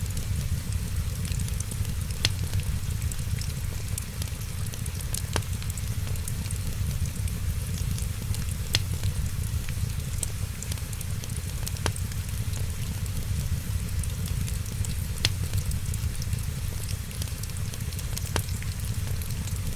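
Wood fire crackling, with sharp single pops every second or two over a steady low rumble and hiss.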